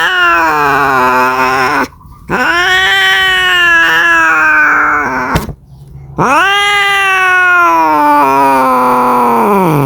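Domestic cat caterwauling, the long yowling call of a cat calling for a mate. One call is already under way and ends about two seconds in. Two more long yowls of about three to four seconds follow, each sliding down in pitch at its end.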